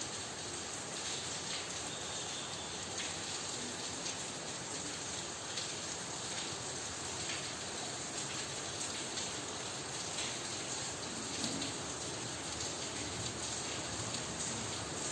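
Steady rain falling, with a light patter of drops on a surface.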